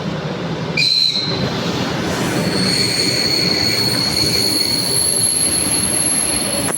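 Train running along the track at the platform, a loud steady rumble with a thin, high-pitched metallic squeal setting in about a second in and holding steady.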